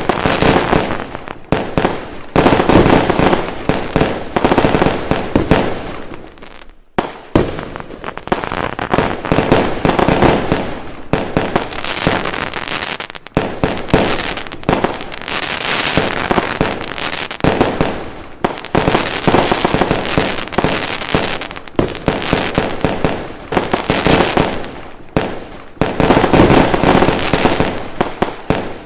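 Fireworks going off in a dense, continuous barrage of rapid bangs and crackling, with short lulls every few seconds.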